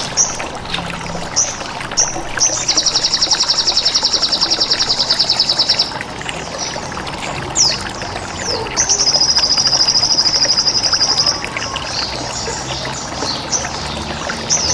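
Recorded songbird calls over steadily trickling water: sharp high chirps and two long, rapid, buzzing trills, the first a few seconds long starting about three seconds in, the second near the middle.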